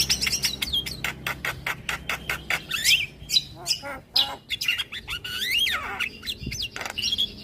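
Javan myna singing: a fast, varied run of sharp clicks, chirps, squawks and sliding whistled notes.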